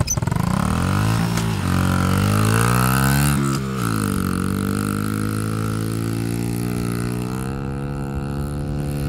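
Dirt bike engine accelerating, rising in pitch for about three seconds, then a quick dip in pitch about halfway through before it runs on steadily.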